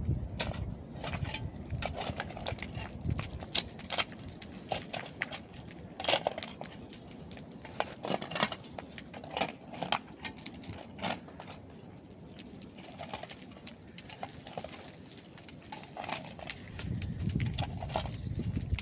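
Irregular knocks, clinks and scraping of stone and rubble being dug out and shifted with hand tools, sometimes several sharp strikes a second. A low rumble swells near the end.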